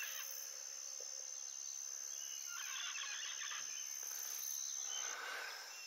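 Rainforest morning ambience: an insect's steady high-pitched trill that stops about five seconds in, with birds calling in the middle and again near the end.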